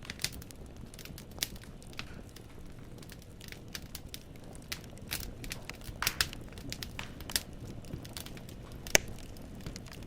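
Wood fire crackling in a fireplace: irregular sharp pops and snaps of burning firewood over a low steady rumble, with a cluster of pops about six seconds in and the loudest single pop near the nine-second mark.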